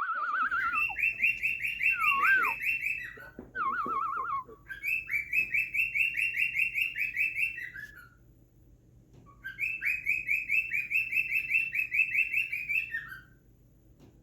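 A cockatiel whistling and singing. Short warbling whistles wobble up and down in pitch, alternating with three long runs of rapid, high chirped notes, each lasting a few seconds, with brief pauses between them.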